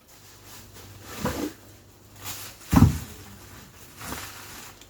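Knocks of frozen food packages being handled and set down while a freezer is emptied, with a heavier thud about three seconds in.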